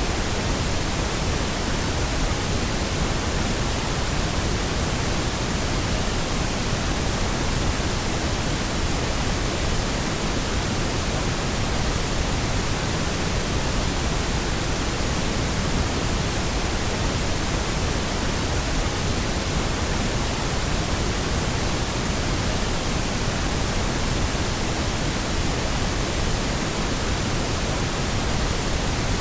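Steady pink noise: an even, unchanging hiss across all pitches, produced electronically as a sleep and masking sound.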